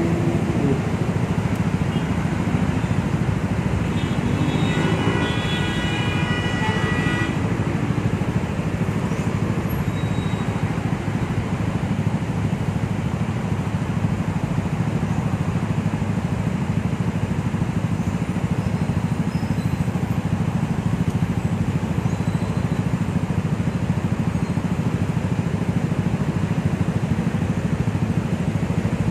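Motor scooter and motorcycle engines idling together in a queue of stopped bikes, a steady low rumble. About four seconds in, a high, steady tone sounds for about three seconds.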